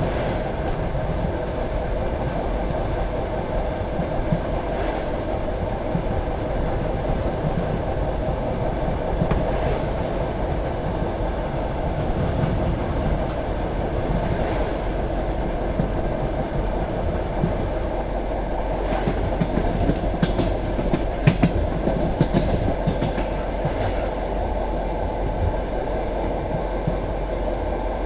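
Passenger train carriage running along the track: a steady rumble of wheels on rail, with occasional sharp clicks from the wheels and a brief cluster of louder knocks about three-quarters of the way through.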